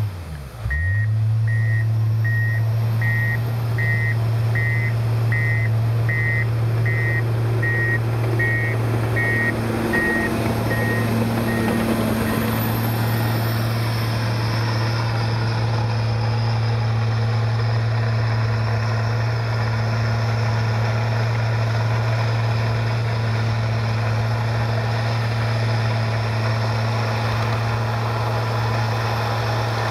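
Komatsu bulldozer's diesel engine running steadily, its reverse alarm beeping about once a second for the first ten seconds or so as it backs up, then only the engine.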